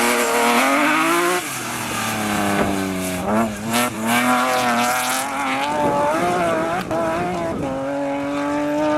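Rally car engine at full throttle, the revs climbing and dropping again and again as it shifts up and down through the gears. A few sharp cracks come about three to four seconds in.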